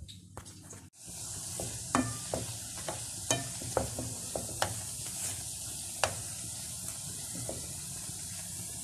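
Pakwaan dough rounds deep-frying in hot oil, a steady sizzle that starts about a second in. A wooden spatula knocks and scrapes against the pan several times as the rounds are turned.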